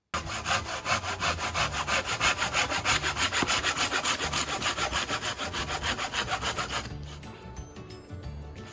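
Rapid, even scraping strokes, about six a second, that drop away about seven seconds in.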